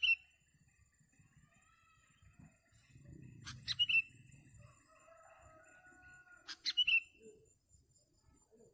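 Sooty-headed bulbul calls: three short bursts of sharp chirps about three seconds apart, with fainter whistled notes between them.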